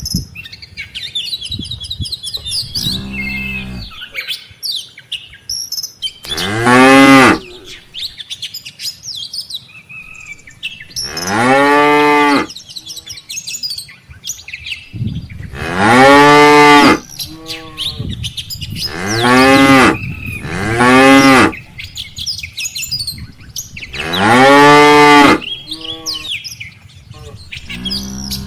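Cattle mooing: about seven long, loud moos a few seconds apart from several cows in a herd, one of them near the start lower and quieter than the rest.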